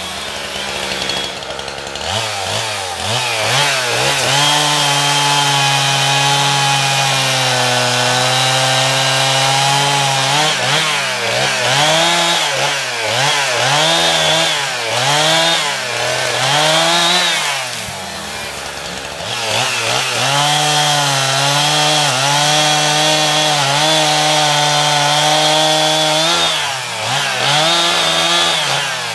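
Two-stroke chainsaw running near full throttle, its engine pitch sagging and recovering over and over. The revs drop briefly about eighteen seconds in.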